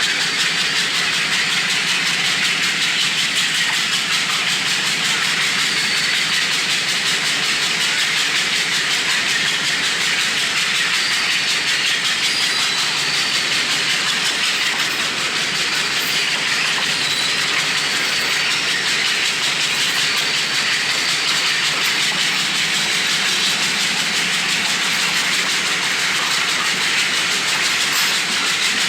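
A moving passenger train, heard from on board: a steady rushing of wind and running noise, with wind buffeting the microphone.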